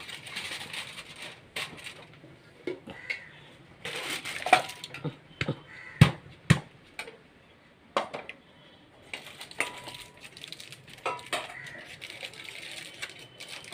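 Scattered clinks and knocks of metal cookware being handled, with two sharper knocks about six seconds in.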